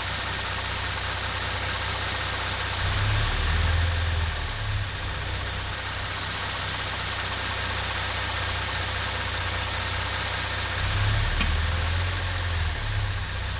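Hyundai Genesis Coupe 3.8 GDI V6 idling warm, with light throttle applied twice, each time briefly raising the engine note. During the second blip the throttle body gives a single clunk/click, the noise under investigation.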